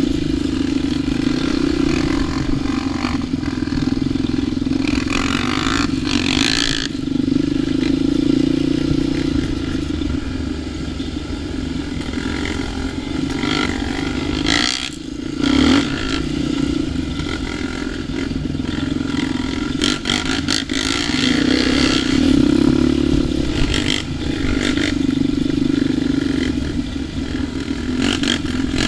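ATV engine running continuously on a trail, the throttle rising and easing off, with clattering and knocks from the machine over rough ground in a few places.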